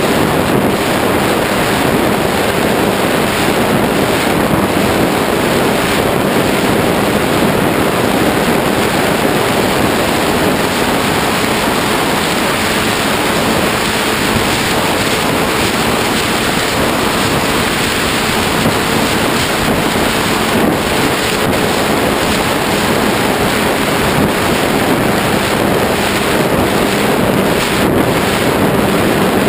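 Steady wind rushing over the microphone of a GoPro HD2 aboard a Ritewing Zephyr II RC flying wing in flight in strong wind. A faint, steady hum of its motor and propeller runs underneath.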